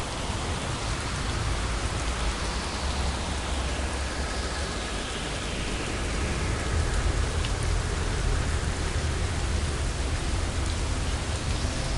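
Steady rain falling in an even hiss, with a low rumble underneath that grows stronger in the second half.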